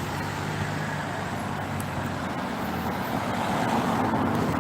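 Road traffic noise: a motor vehicle running past, getting a little louder near the end.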